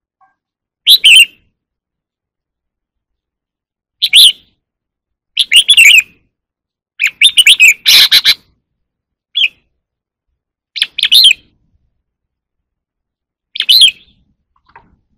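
Red-whiskered bulbul singing short, loud whistled phrases with pauses between them, about seven phrases in all. One phrase about halfway through is harsher and fuller than the rest.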